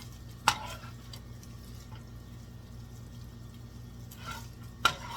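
Two sharp clinks of kitchen utensils against cookware, about four seconds apart, over a steady low hum.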